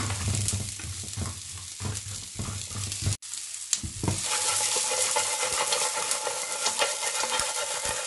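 Battered king crab leg pieces frying with onion and garlic in oil in a nonstick pan, stirred with a spatula: knocks and scraping of the pieces being turned over the sizzle, then after a brief break a steady, louder sizzle.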